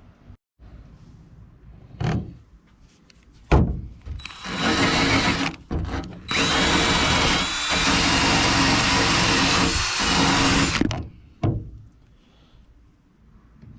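Wire wheel on a power tool spinning and scrubbing glue and old coating off an aluminum boat: a short run about four and a half seconds in, then a longer run of about four seconds, with a steady whine from the motor throughout. Two sharp knocks come before it.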